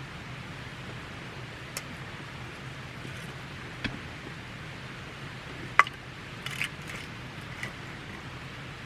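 Wood campfire burning with a steady hiss and a handful of sharp crackles and pops, the loudest about six seconds in.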